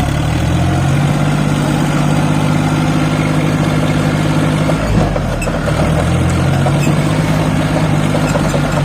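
Tractor diesel engine running loud and steady, with a brief break in its note about five seconds in before it settles back.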